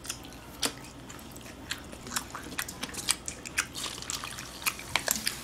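Close-miked chewing of crispy fried chicken: scattered crunches and wet mouth clicks, coming more often in the second half.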